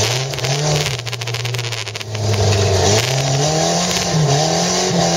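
Volvo 240's engine revving as the car is driven hard across a rough field, heard from inside the cabin. Its pitch drops about two seconds in, then climbs louder, dips briefly and climbs again, over a steady rushing noise.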